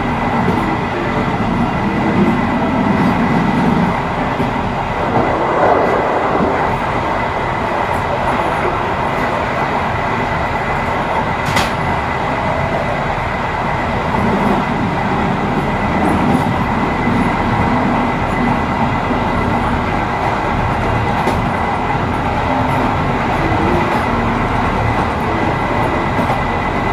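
A train running along the track: a steady rumble of wheels on rails, with a thin steady high tone and an occasional sharp tick.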